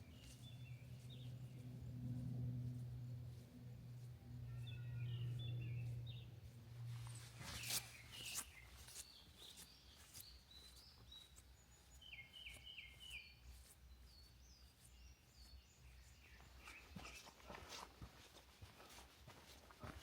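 Faint forest birdsong, short chirps and quick runs of notes, over a low steady hum that stops about eight seconds in. A few sharp knocks come around the time the hum stops, and light clicks and rustles near the end.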